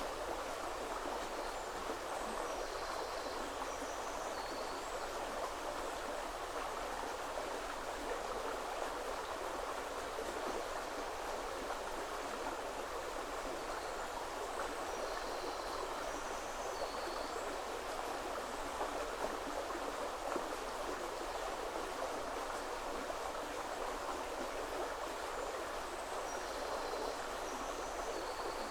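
Woodland river running steadily, an even rush of flowing water. A small songbird sings a short high phrase three times, about twelve seconds apart.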